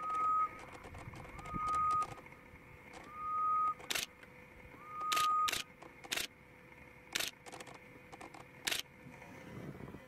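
A bird whistling four clear notes about a second and a half apart, each sliding up and then held level. Several sharp clicks come in the second half.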